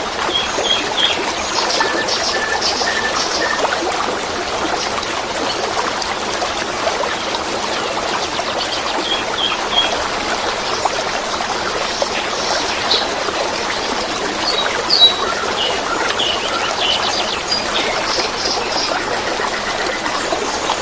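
Water trickling and babbling steadily, with small birds chirping and singing over it in short repeated phrases, a brief louder call about three-quarters of the way through.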